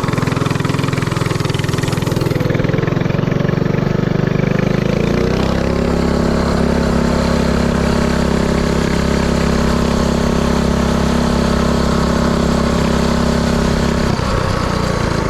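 Mini-bike's Predator 224cc single-cylinder four-stroke engine running under way. Its note shifts about five seconds in, holds steady, then changes again near the end.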